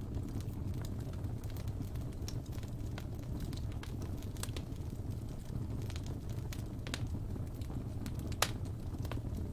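Wood fire burning in a fireplace: a steady low rumble of flames with scattered sharp crackles and pops, the loudest pop about eight and a half seconds in.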